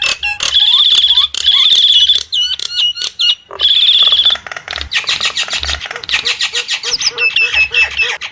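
Nias starling calling loudly: a few harsh, rapidly trilled notes, each about half a second long, in the first half, then a fast run of short chirps and whistles.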